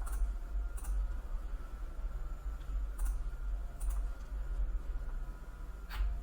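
A handful of sharp, isolated clicks at a computer, spaced a second or more apart, over a steady low electrical hum.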